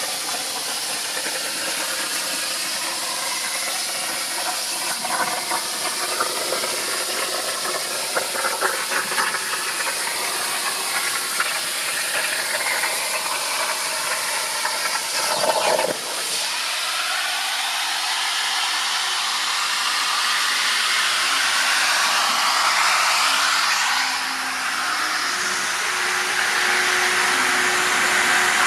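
CNC plasma torch cutting 4 mm steel at 65 A: a steady loud hiss of the plasma arc, with a brief break and change in tone about halfway through.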